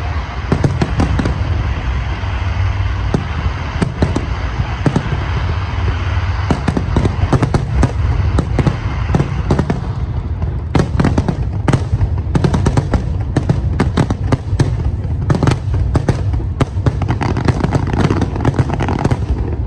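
Aerial fireworks display: a dense, rapid barrage of shell bursts and bangs over a steady low rumble, the bangs standing out more sharply and separately in the second half.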